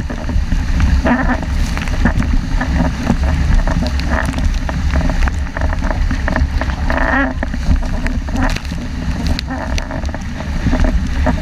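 Strong wind buffeting the microphone, over the rush and spatter of spray and water along a 470 dinghy's hull as it sails fast in 5–6 Beaufort.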